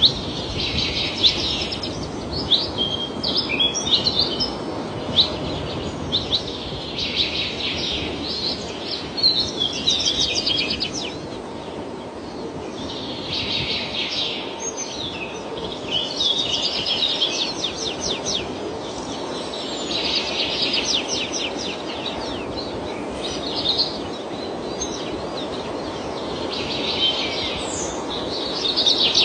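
A songbird singing: about five phrases of quick, high chirps and rapid trills, each lasting a few seconds with short pauses between, over a steady background hiss.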